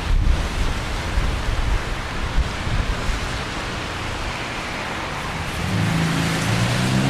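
Steady hiss of rain and wet street, with wind rumbling on the microphone in the first couple of seconds. About six seconds in, a car engine comes up, its pitch rising as it accelerates.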